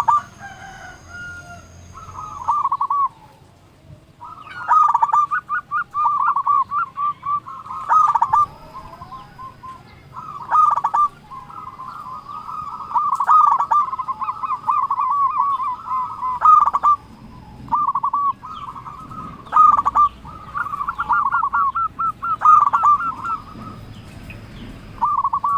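Zebra dove (perkutut) cooing repeatedly: bouts of quick, rolling, staccato coos with short pauses between them, the song of a male in full voice.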